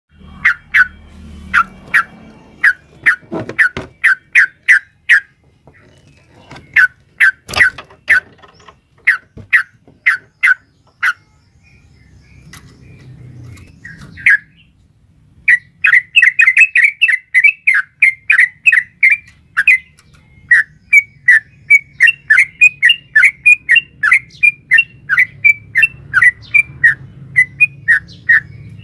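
Yellow-vented bulbul (trucukan) calling in runs of short, sharp chirping notes, which the uploader presents as a female calling a male. After a pause about halfway through, it breaks into a long, fast run of about four or five notes a second.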